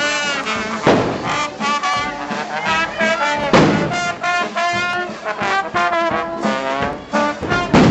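Street procession band playing brass instruments in a tune, with a few heavy drum strikes: about a second in, midway, and near the end.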